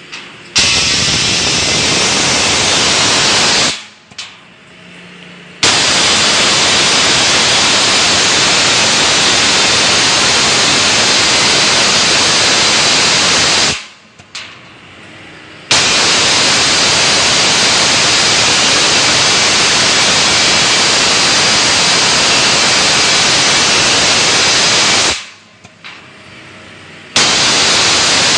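CNC plasma torch hissing loudly as it cuts, starting abruptly and trailing off at each stop. It runs in stretches of a few to ten seconds, with short quieter pauses of about two seconds between them: it starts about half a second in, stops and restarts three times.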